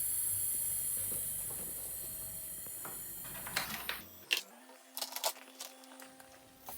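A steady high hiss with faint tones in it, fading slowly and cutting off about four seconds in, followed by several light clicks and knocks.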